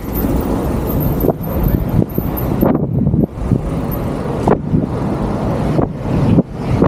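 Wind buffeting the microphone of a camera on a moving e-bike, rising and falling in gusts, over the noise of road traffic.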